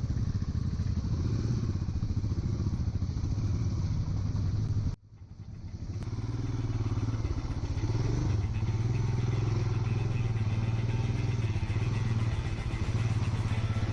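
Royal Enfield single-cylinder motorcycle engine running steadily on the move. The sound cuts out abruptly about five seconds in and fades back over a second.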